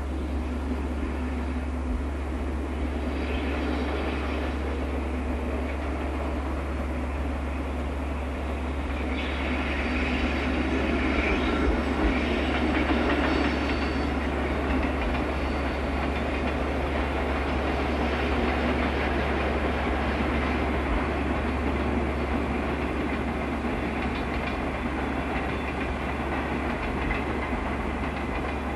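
A JNR Class EF65 electric locomotive hauling a train of long-rail flat wagons passes at a distance, its wheels rumbling steadily on the track. The sound grows louder and brighter from about nine to fourteen seconds in.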